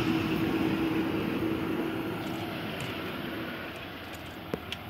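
Steady rumble of a train with a low, even hum, fading gradually; two faint clicks near the end.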